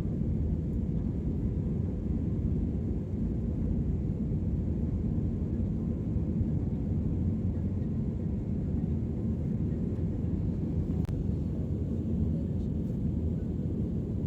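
Airliner cabin noise: a steady low rumble of the engines and airflow heard from inside the cabin, with a faint click about eleven seconds in.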